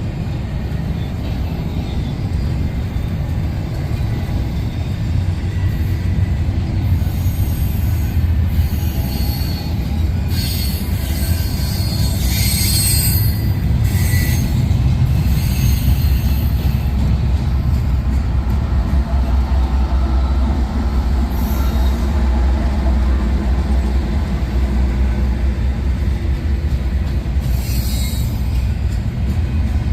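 Train rolling past: a steady low rumble of steel wheels on rail, with high-pitched wheel squeal coming and going, strongest about halfway through.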